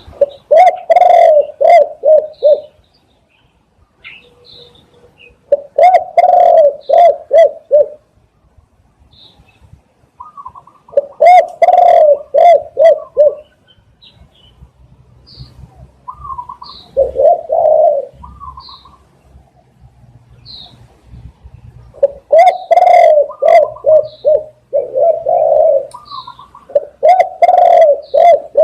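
Spotted dove cooing in phrases of several coos each, repeated about every five seconds. Faint short chirps of small birds sound between the phrases.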